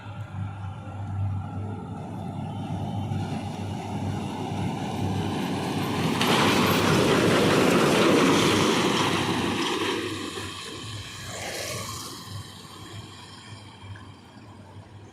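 A heavy truck passes at speed: engine and tyre noise build to a peak about halfway through, then fade away. A low hum runs underneath throughout.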